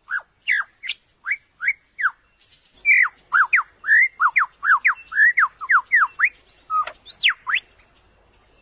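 Male superb lyrebird singing his courtship song: a run of loud, clear whistled notes, mostly sweeping down in pitch. They come a few at a time at first, then crowd together quickly from about three seconds in, ending with a couple of higher, longer down-sweeps.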